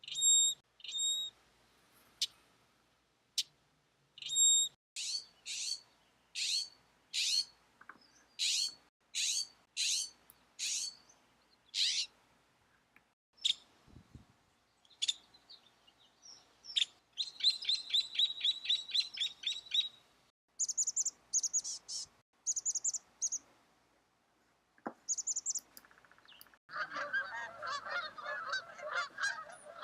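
Wild birds calling: a run of sharp, high calls about every 0.7 s, then a rapid high trill and bursts of high chirps. Near the end comes a dense, lower chatter of many birds calling at once.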